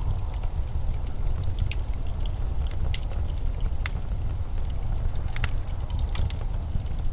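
Winter storm wind blowing as a steady low rumble, with scattered sharp crackles and clicks on top, the clearest about three, four and five and a half seconds in.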